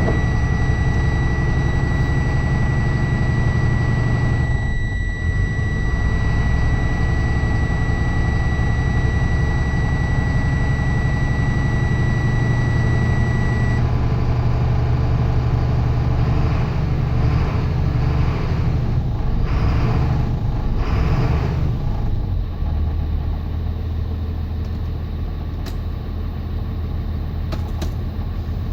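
Mercedes-Benz OM926LA inline-six diesel in a Thomas Saf-T-Liner C2 school bus, idling steadily shortly after a cold start. A steady high-pitched buzzer sounds over it and stops about fourteen seconds in.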